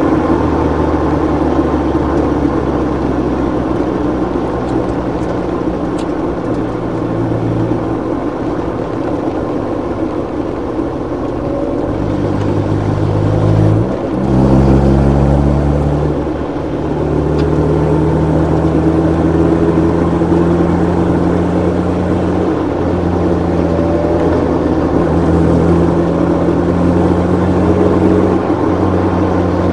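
Mazda MX-5 race car's four-cylinder engine heard from inside the cockpit, running at low revs of about 2,000–3,000 rpm at slow speed. Its pitch sags gently, then about halfway through it breaks briefly and jumps up before running steadily again.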